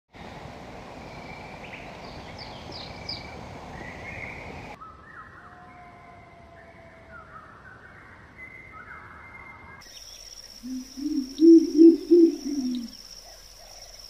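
Bird calls from three spliced recordings: first high chirps over a noisy background, then a run of mid-pitched calls, then a rapid series of low owl hoots, the loudest part, over a steady high whine.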